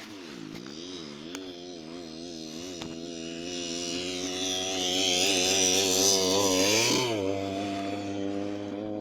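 A Simson motorcycle's two-stroke engine being blipped and revved. Several quick throttle blips come first, then it grows louder with a sharp rev at about seven seconds, and it drops back to a steady idle near the end.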